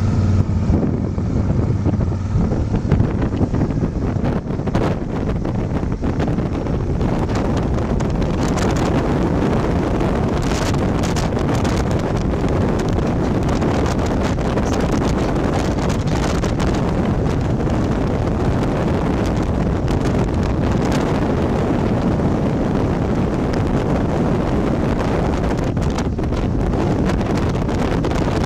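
Wind rushing over the microphone of a motorcycle riding at speed, a steady loud noise. In the first couple of seconds the engine's low hum can be heard, then the wind covers it.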